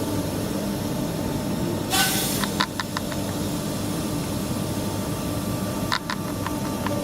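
Steady workshop background noise, with a short burst of hissing about two seconds in and a few sharp clicks.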